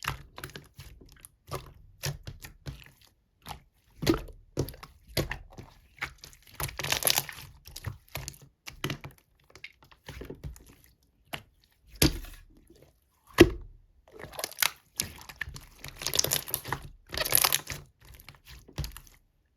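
Hands playing with slime: a string of sticky clicks and pops, with longer crackly squishing stretches about seven seconds in and again near the end.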